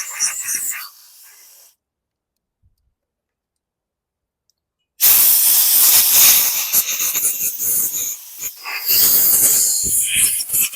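Hissing spray blown at close range while a lawn mower carburetor is cleaned: a short burst near the start, then after about three seconds of dead silence a long, loud hiss that dips briefly a few times.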